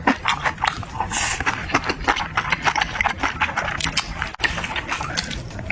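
Close-miked eating sounds: rapid wet chewing and crunching, with a short hissy slurp about a second in.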